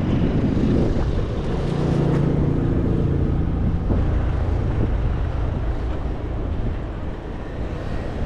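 City street noise heard from a bicycle: a motor vehicle's engine hums past for a few seconds, over a steady low rumble of wind on the microphone.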